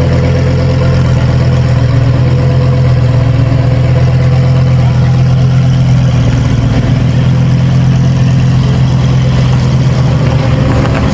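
A car engine idling steadily, a loud, even low hum.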